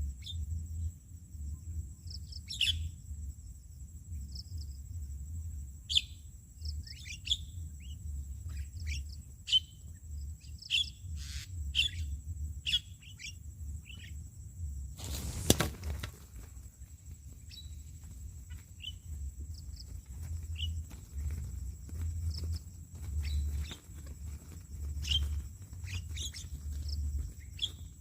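Birds calling with short, sharp chirps, one after another at irregular intervals, over a low, steady rumble. About halfway through, a brief noisy rush covers everything for about a second.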